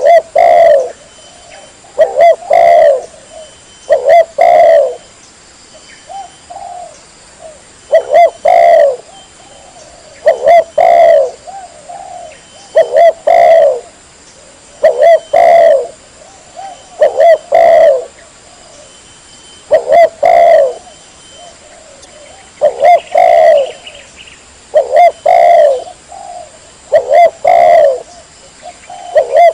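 Spotted dove (tekukur) cooing over and over, a loud clear phrase of a few coos about every two seconds.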